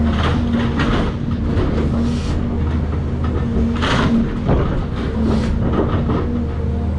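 Caterpillar 336 excavator's diesel engine running steadily, with irregular crashes and scrapes of house demolition debris being broken and moved, the loudest about four seconds in.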